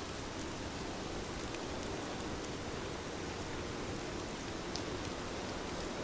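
Steady rain falling: an even hiss with scattered small drop ticks, one a little sharper near the end.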